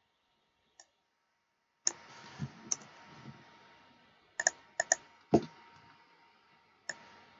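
Computer mouse clicking: about eight separate sharp clicks at irregular intervals, including a quick double click about five seconds in, over a faint steady hiss.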